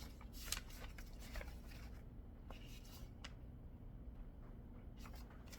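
Faint handling noises: light rustling and a few small clicks, mostly in the first half, over a low steady room hum.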